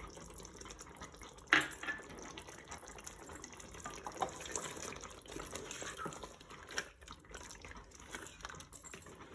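Chicken curry gravy bubbling in the pot, with a sharp clink of a utensil about a second and a half in and another later.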